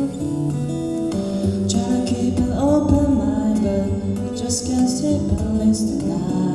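Acoustic guitar played fingerstyle with a voice singing over it from about a second and a half in.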